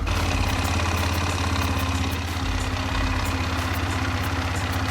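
Small petrol engine of a kids' quad bike or pit bike idling steadily, with a fast even putter, just after being started with its dead battery jumped from a car.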